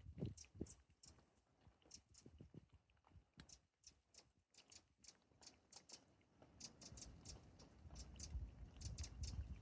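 Faint chirps of small wild birds: short, high notes in scattered clusters, busiest near the end. Under them are a few soft, low crunching sounds, like footsteps in snow.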